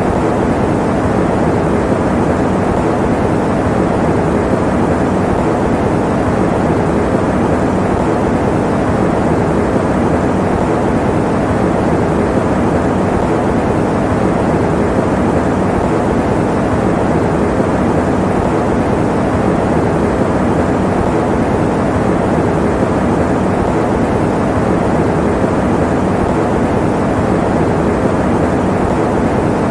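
Electric fan running, a steady, unchanging rushing noise, muffled and low, with little hiss in the highs.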